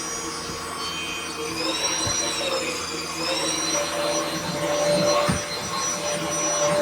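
CHEBIO A16 cordless stick vacuum running, a steady motor whine over a rush of airflow; its pitch sags briefly about two seconds in and then recovers.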